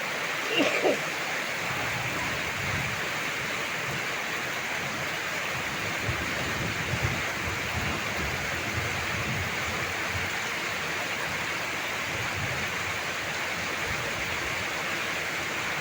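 Heavy tropical rain pouring down steadily, an even hiss, with a low rumble coming and going underneath.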